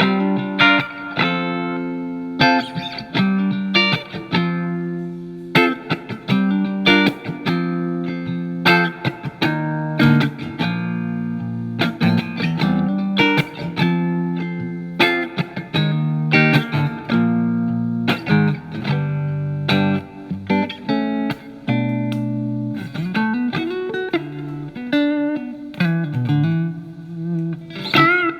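Telecaster electric guitar played through a Marshall MG15FX amp on its clean channel with reverb: chords and double-stops picked one after another and left to ring. Near the end a note is bent and shaken with vibrato.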